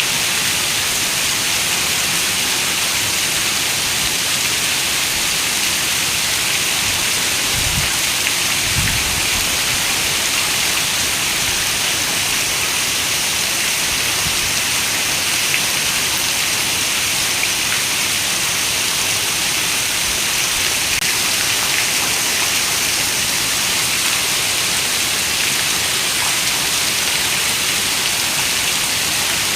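Heavy rain falling as a steady, dense hiss, with a brief low rumble of thunder about eight seconds in.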